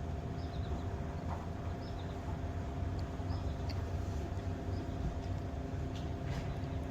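Steady low mechanical hum with a constant whine, unchanging throughout, with a few faint high chirps over it.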